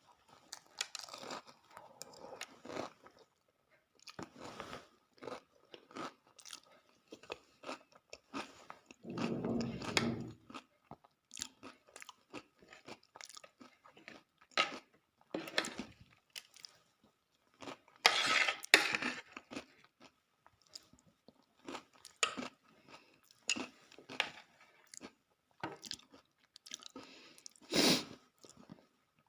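Close-up chewing and crunching of dahi puri, crisp fried puri shells filled with yogurt: a steady run of small crunches and wet mouth sounds, with a few louder bursts about a third of the way in, near two-thirds, and near the end.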